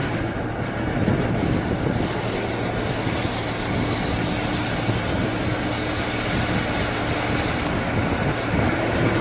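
Airplane noise: a steady, even rushing with a low hum and a faint held tone, unbroken throughout.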